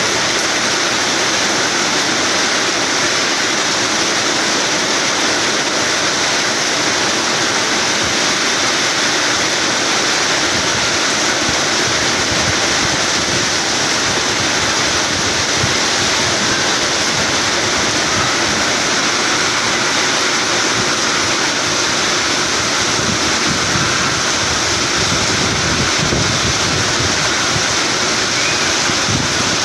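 Heavy rain pouring down in a storm, a steady loud rushing hiss with no letup.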